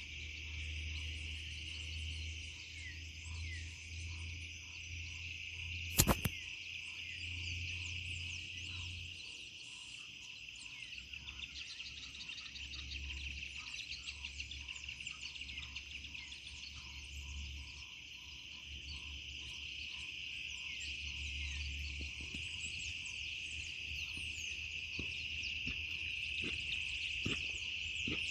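Steady chorus of frogs and insects, a dense high trilling with rows of shorter repeated calls beneath it. A single sharp click about six seconds in.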